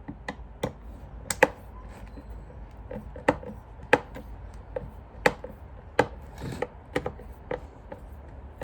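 Torx screwdriver being turned by hand in the screws of a Dyson vacuum's plastic cyclone assembly: a string of sharp, irregular clicks and knocks, about one every half second to second.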